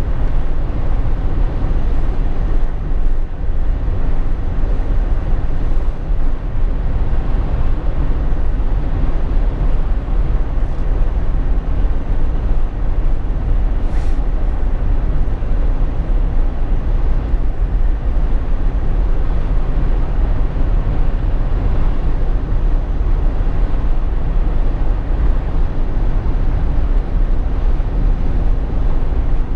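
Steady low rumble of road and engine noise inside the cabin of a Jeep Wrangler JK on the move, with a single brief click about fourteen seconds in.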